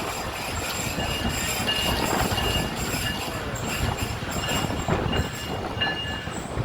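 Passenger train coaches rolling along the track, a steady rumble with knocks from the wheels and high-pitched wheel squeals that come and go.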